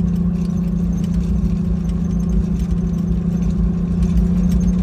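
Jeep Wrangler YJ running at a steady low speed, a constant low hum with no change in pitch, over a low rumble of wind buffeting the microphone.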